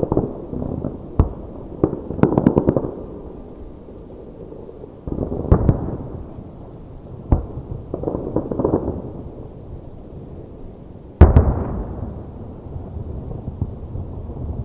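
Aerial fireworks shells bursting: a string of sharp bangs with bursts of crackling, then the loudest bang about eleven seconds in, followed by a long rumbling echo.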